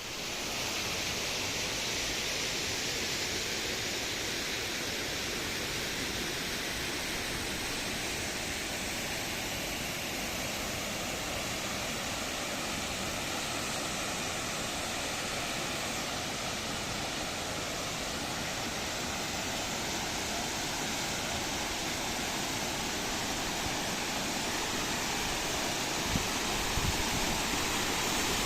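Düden Waterfall's water pouring down in a steady, even rush, with a brief faint knock near the end.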